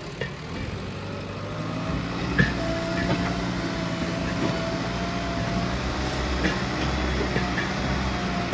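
Diesel engine of a JCB 3DX backhoe loader running steadily, growing louder about two seconds in, with one sharp metal knock soon after and a thin steady whine for a few seconds in the middle.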